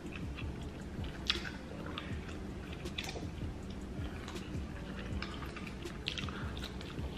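Wet chewing and lip-smacking while eating a buttery seafood boil, with sharp mouth clicks and smacks about once a second over a steady low hum.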